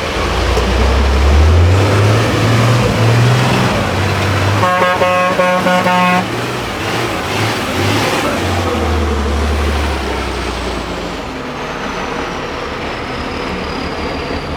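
Heavy 8x8 Tatra off-road truck's diesel engine revving under load, its pitch climbing over the first few seconds and again later on. A horn sounds once, a steady blast of about a second and a half, midway through.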